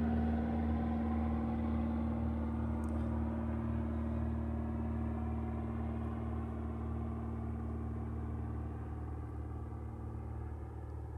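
Airplane flying over, a steady droning engine rumble that is loudest at first and slowly fades.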